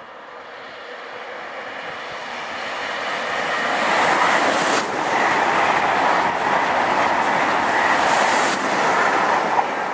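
SNCF TGV high-speed train passing at speed. A rushing noise builds over the first four seconds as it approaches, stays loud for about five seconds while the train runs by, then begins to fade.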